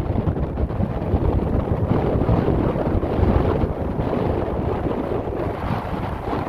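Strong blizzard wind buffeting the microphone: a loud, low, gusting rush.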